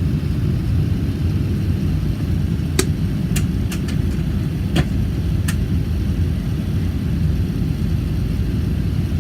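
A steady low rumble, with several sharp clicks between about three and five and a half seconds in.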